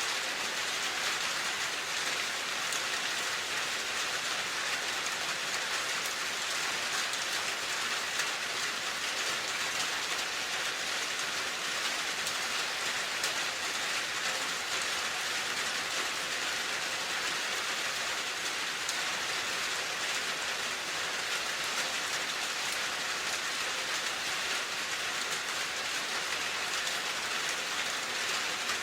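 Steady rain falling, an even hiss of drops on a surface with occasional faint individual drop ticks.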